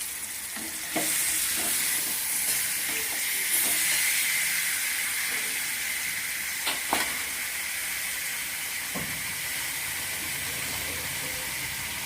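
Chicken pieces sizzling in a pan of fried onion-tomato masala: a steady hiss that grows louder about a second in, with a few sharp knocks of a spatula against the pan.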